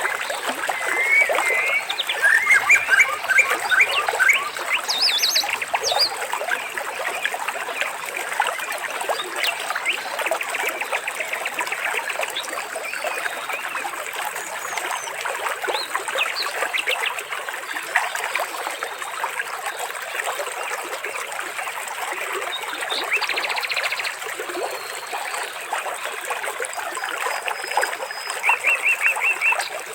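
Water trickling steadily, with birds chirping and giving quick trills over it; the calls are busiest about two to four seconds in and again near the end.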